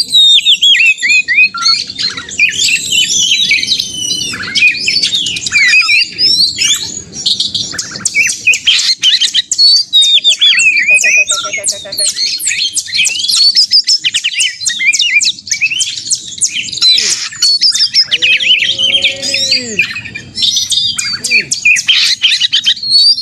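Oriental magpie-robin (kacer) in full, aggressive song: a rapid, unbroken stream of varied whistles, sweeping chirps and harsh notes, with a short run of lower, arching notes about eighteen seconds in.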